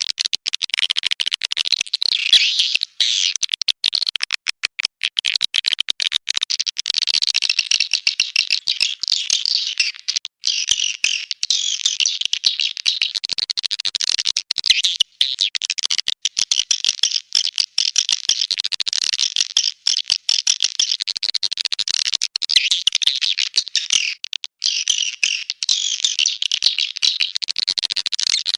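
Swiftlet lure-call recording: a dense, high-pitched stream of rapid swiftlet chirps and twitters with brief breaks.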